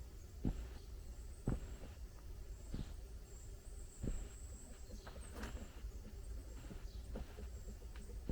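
Footsteps walking on soft forest ground, one dull step about every second and a quarter.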